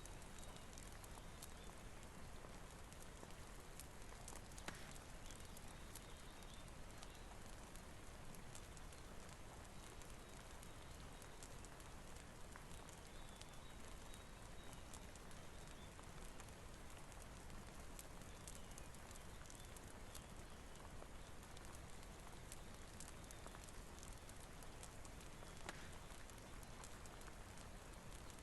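Soft, steady rain hiss with scattered sharp crackles from a wood fire, a couple of them louder, about five seconds in and near the end.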